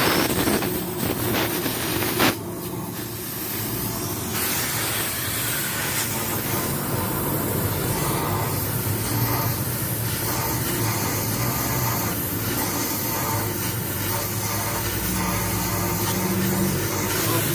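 Mitsubishi Canter truck's diesel engine running through an aftermarket exhaust, a steady loud drone with heavy hiss and low tones that shift in pitch, and a short sharp burst about two seconds in.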